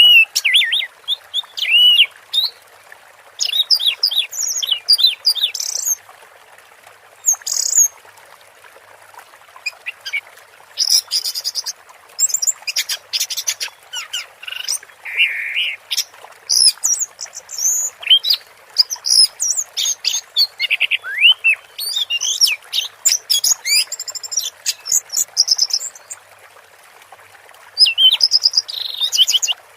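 Orange-headed thrush singing a long, varied song of quick whistled and chattering phrases in runs with short pauses, over a steady hiss.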